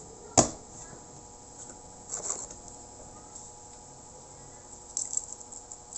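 Eating a vegetable salad: a sharp click about half a second in, then short crunching or rustling sounds at about two seconds and again near five seconds, over a faint steady hum.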